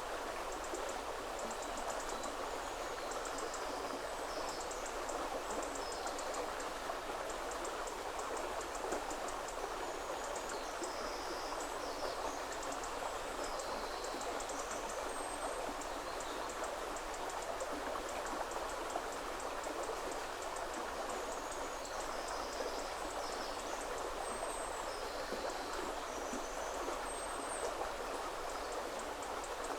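A river running steadily over stones, an even rushing of water. Small birds give short, high chirps here and there above it, with a faint rapid ticking call high up through the first half.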